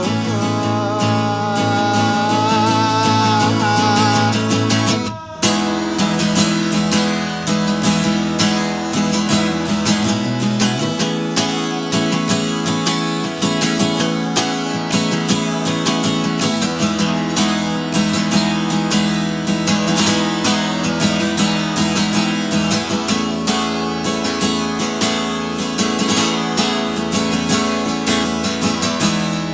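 Acoustic guitar playing the song's closing instrumental passage, rapid strummed and picked chords. A held note wavers in pitch over it for the first few seconds. The playing breaks off briefly about five seconds in, then carries on steadily.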